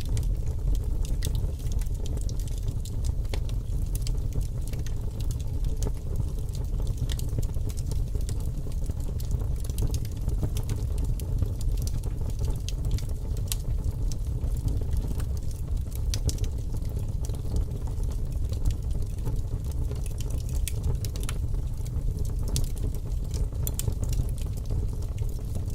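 Fire crackling: irregular sharp snaps and pops over a steady low rumble.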